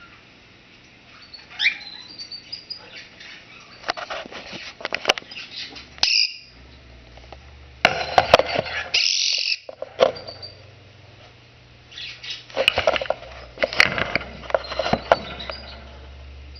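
Quaker parrot (monk parakeet) chirping and chattering in short bursts, with a harsh, high squawk about nine seconds in.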